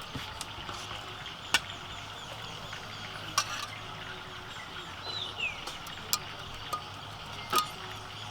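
Steady outdoor background with four sharp clinks spread through, and one short falling bird chirp about five seconds in.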